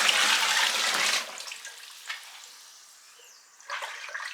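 Water poured from a bucket into a twin-tub washing machine's tub, a loud rush lasting about a second and then tailing off. A few light knocks follow near the end.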